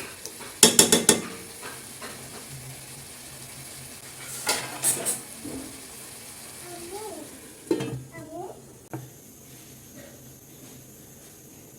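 A utensil stirring and scraping food in a frying pan, with two short bursts of clinks against the pan over a steady sizzle. A faint voice is heard in the background near the end.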